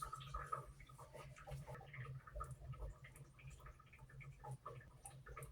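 Faint scattered small ticks and rustles over a low steady hum, in a quiet small room.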